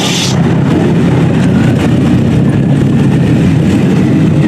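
Loud, rough rumble of a high-performance car engine under power, with a short hiss right at the start.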